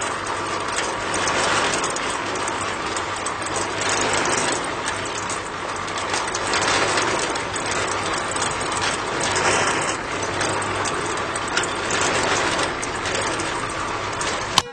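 A small engine running steadily: a dense mechanical rattle over a low steady hum, cutting in and out abruptly.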